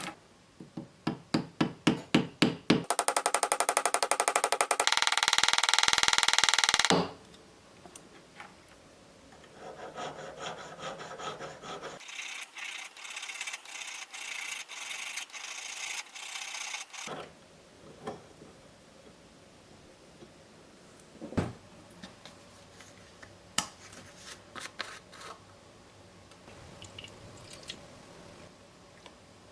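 Hand work on a sterling silver chain bracelet at a jeweler's bench: a run of quick strokes, then a loud rasping for about four seconds, like filing or rubbing metal. After a pause come softer scraping strokes for several seconds, then a few scattered light taps and one sharper knock.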